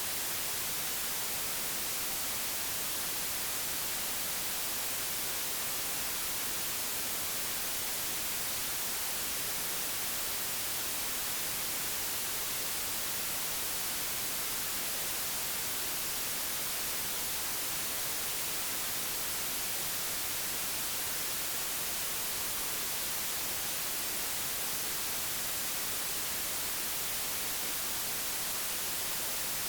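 Digitally generated white noise: a steady, even hiss with no change, rendered at low amplitude for sound masking.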